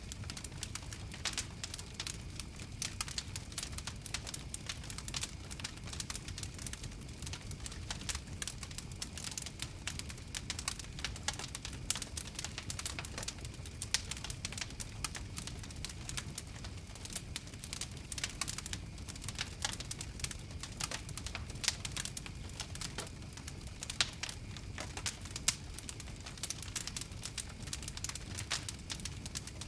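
Wood fire crackling and popping steadily, with many small irregular snaps and a few louder pops over a low rumble of the flames.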